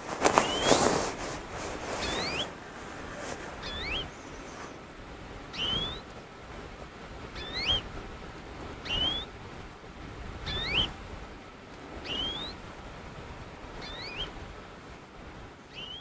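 A bird calls repeatedly, a short rising note about every second and a half to two seconds, over a steady background of rustling and crunching. The crunching is loudest in the first second.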